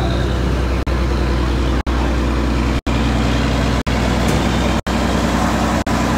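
A large engine running steadily with a low hum, the sound cutting out for an instant about once a second.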